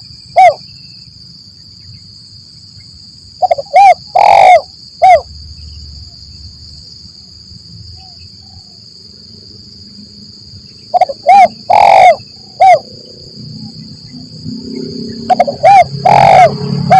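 Spotted dove (tekukur) cooing: three phrases several seconds apart, each of two short coos, a longer coo and a short coo, over a steady high-pitched tone. A low rumble builds near the end.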